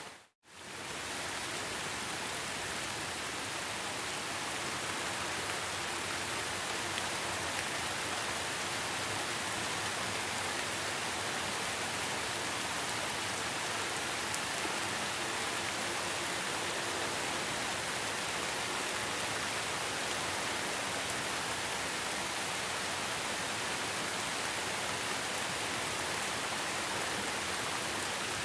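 Heavy rain falling steadily, an even hiss of drops without thunder. Right at the start it briefly fades to silence and swells back within about half a second, like a loop restarting.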